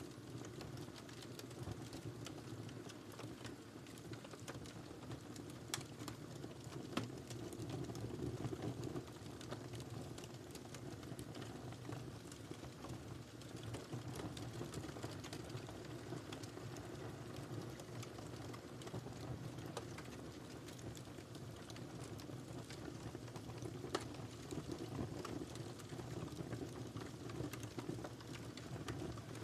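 Wood fire burning in a fireplace: a steady low rumble of flames with irregular crackles and pops, a few sharper pops standing out about 6, 7 and 24 seconds in.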